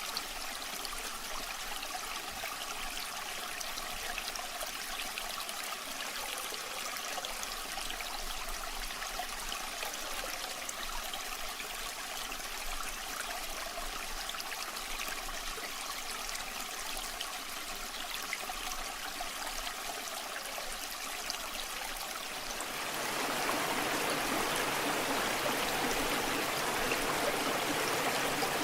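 Waterfall water rushing and splashing in a steady even wash. About three-quarters of the way through it grows louder and fuller.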